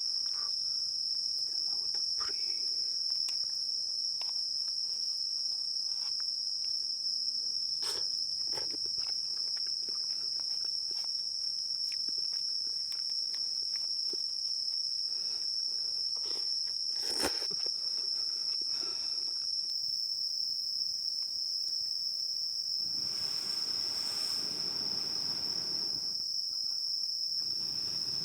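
Insect chorus: a steady, unbroken high-pitched drone. A couple of sharp clicks and, in the last few seconds, a stretch of soft hiss lie underneath it.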